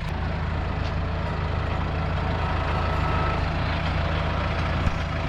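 Heavy vehicle engine idling steadily, with one sharp click near the end.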